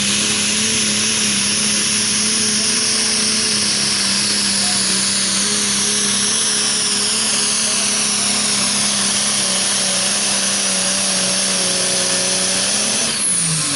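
Super stock pulling tractor's turbocharged engine at full throttle down the track, its pitch held steady and high, then dropping off near the end as the throttle is released and the pull ends.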